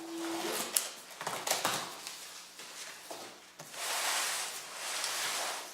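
A utility box cutter cutting open a cardboard box: a few sharp clicks, then a long rasping slice through the tape and cardboard in the second half.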